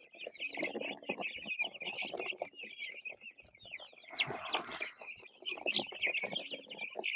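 A flock of young Cornish Cross meat chicks peeping continuously in dense, overlapping high chirps, with lower clucks beneath. A brief burst of noise about four seconds in.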